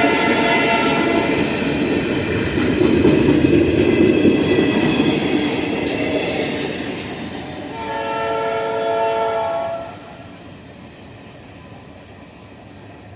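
Locomotive air horn sounding a chord as a train passes close by, its wheels rumbling loudly on the rails. A second horn blast about eight seconds in lasts around two seconds, then the train noise drops off sharply.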